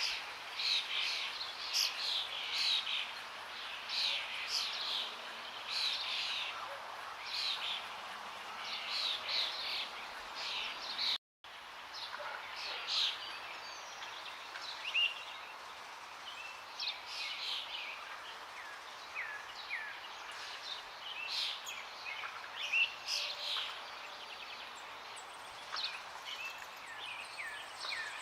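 Many songbirds chirping and singing over a steady rush of flowing water. The sound cuts out completely for a moment about eleven seconds in, and the birdsong is sparser after that.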